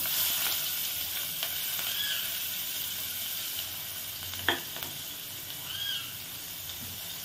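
Sliced onion frying in hot oil in a pot, a steady sizzle that eases off gradually as it settles. One short clink about halfway through.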